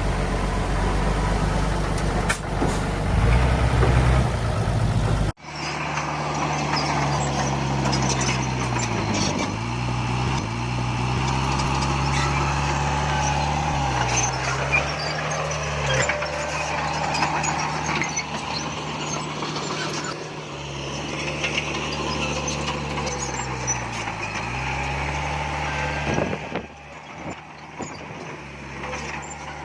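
Heavy diesel earthmoving machinery running under load, a low rumble that changes abruptly about five seconds in. After the change one engine runs steadily, its pitch dipping briefly every few seconds as the load shifts, and the level drops near the end.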